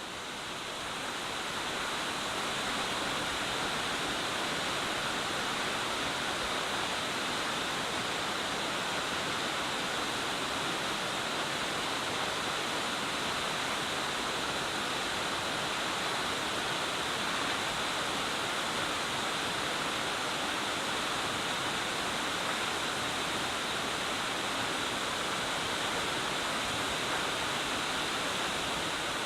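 Sakuradaki waterfall: a steady, full rush of falling water, swelling over the first couple of seconds and then holding even.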